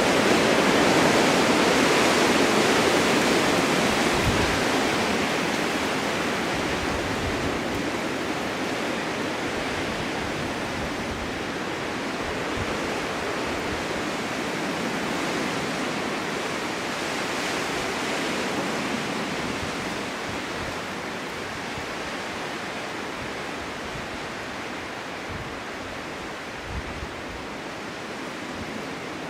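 Snowstorm wind blowing across a forest meadow, a steady rushing noise. A strong gust at the start eases slowly, with a smaller swell about two-thirds through and a few faint low thuds.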